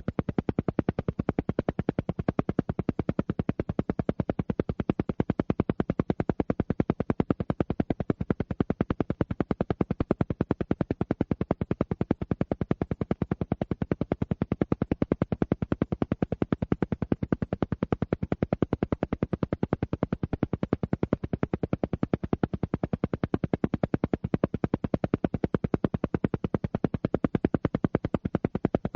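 An alpha-wave entrainment track: a steady, unbroken train of short, sharp pulses at about ten a second, each reaching from low to high pitches.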